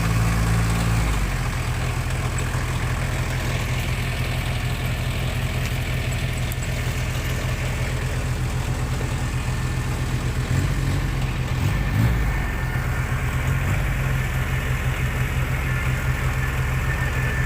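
Tractor engine running steadily at low revs. Its note drops about a second in, and briefly rises again about two-thirds of the way through.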